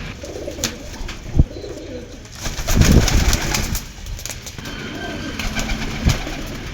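Domestic pigeons cooing, with two short knocks and a louder, noisy burst about three seconds in.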